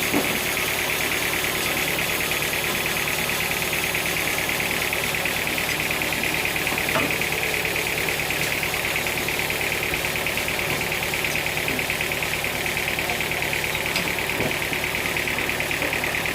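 Sawmill machinery running steadily: an engine drone with a constant high-pitched whine over it, and a few faint knocks.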